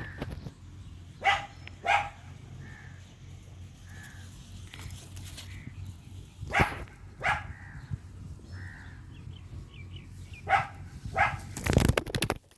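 Ringneck parrots giving short, harsh squawks in quick pairs, three pairs spaced a few seconds apart, with softer calls between, during a squabble. A brief loud clatter comes near the end.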